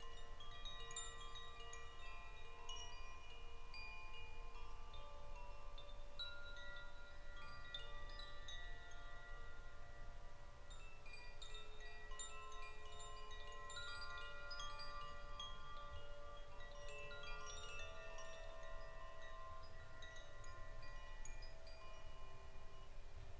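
Chimes ringing: many overlapping, sustained metallic tones at different pitches, struck at irregular moments and left to ring, over a faint low rumble.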